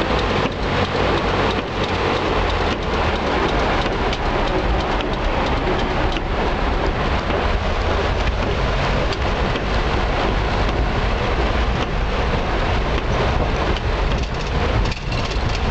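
Heavy tropical rain pelting a car's roof and windscreen, heard from inside the car as a dense, steady patter of drops. Under it runs the car's low, steady rumble as it drives.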